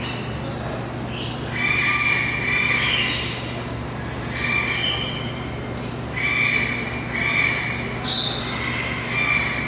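Birds calling: a series of harsh, pitched calls, each under a second long and often in pairs, about seven in all. A steady low hum runs underneath.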